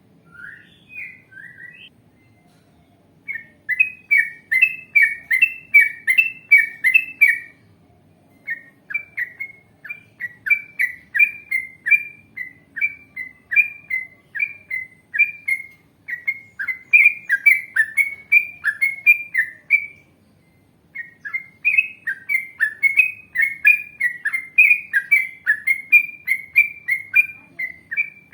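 Yellow-vented bulbul singing long runs of quick, repeated chirpy notes, about three a second, broken by short pauses a few times.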